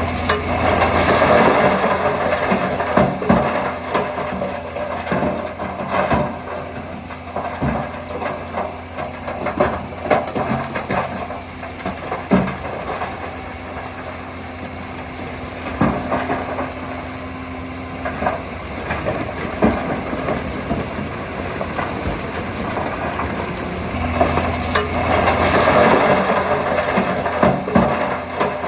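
Shantui DH17C3 bulldozer's diesel engine running steadily, with many sharp knocks and clanks. The engine gets louder and rougher for a few seconds at the start and again near the end.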